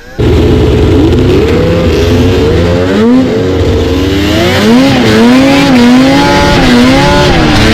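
Vintage two-stroke snowmobile engine running loud and close, its pitch rising and falling as the throttle is worked. It cuts in suddenly just after the start.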